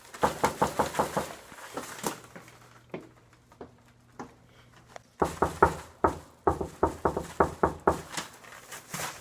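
Rapid knocking on a door, two runs of quick knocks about five a second, the second run starting about five seconds in.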